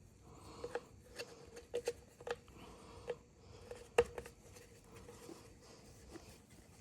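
Scattered light clicks and taps of small parts being handled and fitted together, about ten in all, with the sharpest knock about four seconds in.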